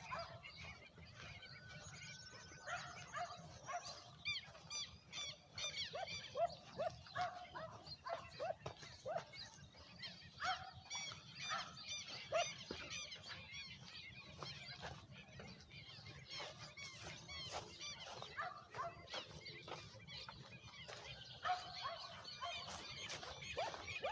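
Birds calling: many short chirps and squawks overlapping throughout, over a low steady rumble.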